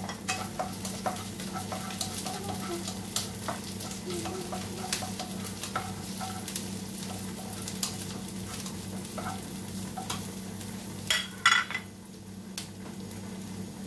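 Chopped garlic and spices sizzling in a little hot oil in a frying pan while a spatula stirs them, with frequent small scrapes and taps on the pan. A louder clatter comes about eleven seconds in, over a steady low hum.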